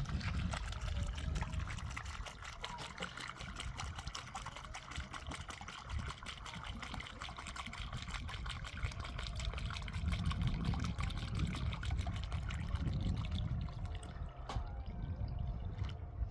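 Water running and splashing steadily, a dense patter of small drops with a low rumble underneath.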